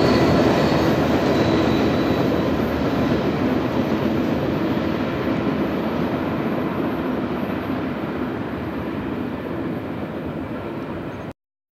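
Double-stack container freight cars rolling on steel rails, the wheel and rail noise fading steadily as the end of the train moves away. The sound cuts off suddenly near the end.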